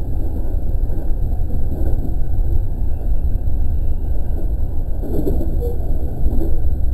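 Running noise heard from inside an E217 series electric commuter train moving along the track: a steady low rumble.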